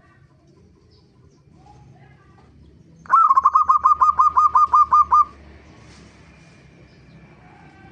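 Zebra dove (perkutut) calling: a rapid run of about fourteen short, evenly spaced cooing notes lasting about two seconds, starting about three seconds in. Faint bird calls sit before and after it.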